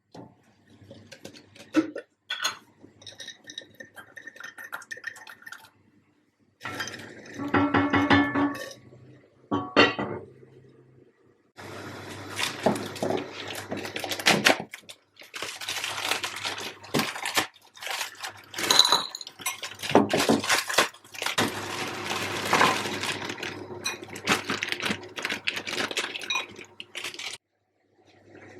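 Dishes, containers and cutlery clinking and clattering as they are handled, with sharp knocks and bits of rustling or scraping in between.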